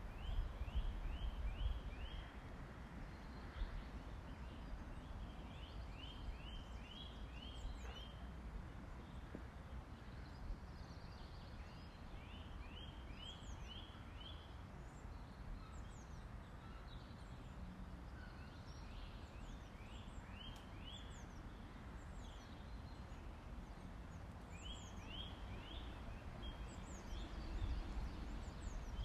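A bird repeating a short song phrase of about five quick notes, a new phrase every six seconds or so, with fainter high chirps from other birds. A steady low rumble runs underneath.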